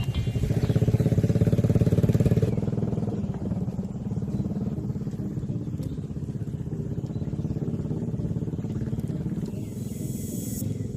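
A small engine running with an even pulse, louder for the first two seconds or so and then steady. A brief hiss comes near the end.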